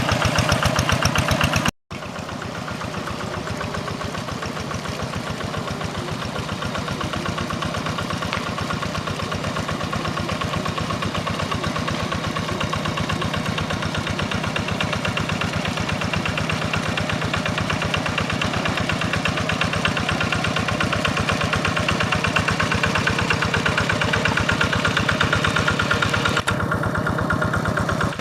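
Quick G1000 hand tractor's single-cylinder diesel engine running steadily with an even, rapid beat. The sound cuts out for a split second about two seconds in.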